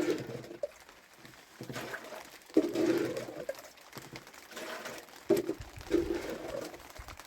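A baby making short cooing vocal sounds in three brief bouts, over a faint hiss of rain.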